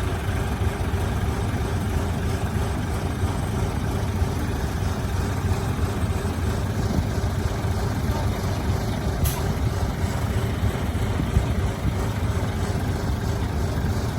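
Heavy diesel engine of earth-moving machinery running steadily at low revs, with one brief sharp tick about nine seconds in.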